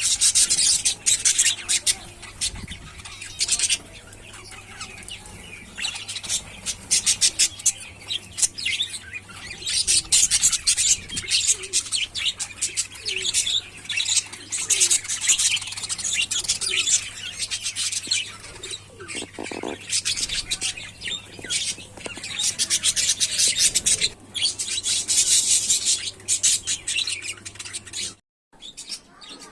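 A flock of budgerigars chattering: rapid, high-pitched chirps and warbles swelling and fading in waves every few seconds, over a faint low hum.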